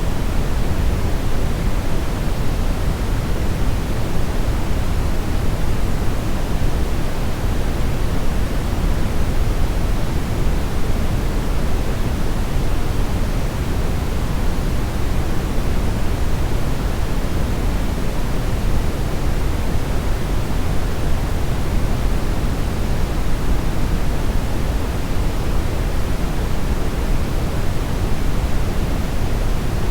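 Steady synthetic brownish noise, a constant deep hiss with most of its weight low down and no events or changes.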